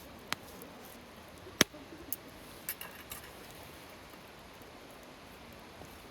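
Campfire wood crackling over a low steady hiss, with a handful of sharp pops in the first half, the loudest about a second and a half in.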